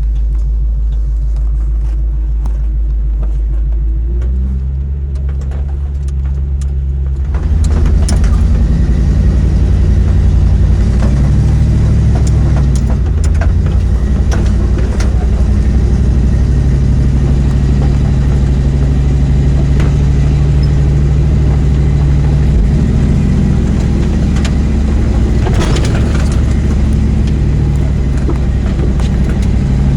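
Off-road wrecker's engine pulling hard under load while towing a Jeep up a steep trail climb. It steps up louder about seven seconds in and then holds a steady low drone, with a few brief knocks and rattles.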